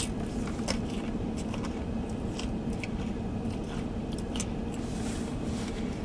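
A person chewing a mouthful of Little Caesars thin-crust pizza close to the microphone: irregular crunchy chewing clicks, over a steady low hum.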